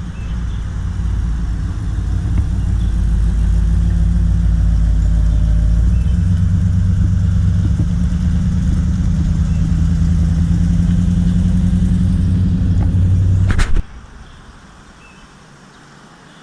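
A car engine idling close by with a steady low rumble; its note shifts slightly partway through. Near the end, a click and the rumble cuts off abruptly, leaving only quiet background.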